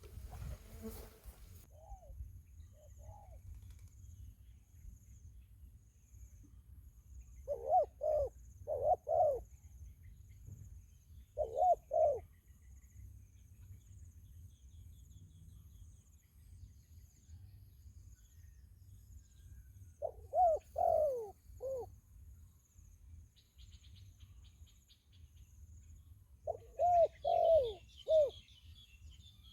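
Spotted dove cooing in four short phrases of several mellow coos each, spaced several seconds apart, over a faint steady insect buzz. A few small bird chirps come in near the end.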